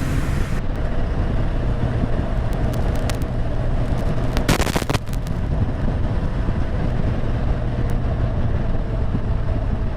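Motorcycle engine running steadily at cruise, with road and wind noise on a helmet or bike-mounted camera; a brief louder rush about halfway through.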